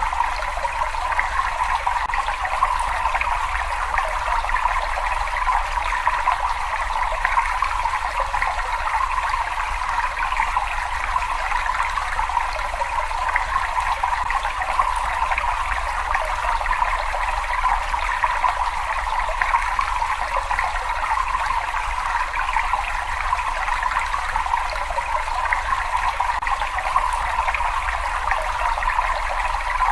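Water flowing and trickling steadily in a cave, an even unbroken rush with a low rumble beneath it.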